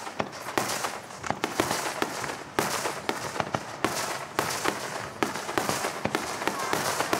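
Aerial fireworks bursting in quick, irregular succession: many sharp bangs over continuous crackling.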